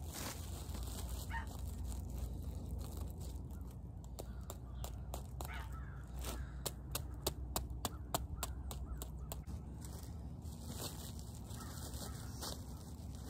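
Birds cawing now and then over a steady low rumble, with a run of quick sharp clicks and taps in the middle few seconds.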